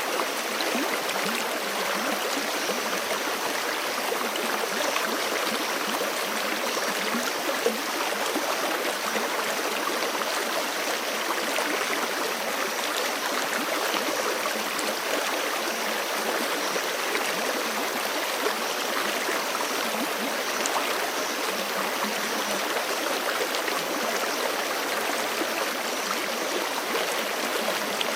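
Forest creek running steadily over rocks, a continuous rush of water with small splashes and gurgles.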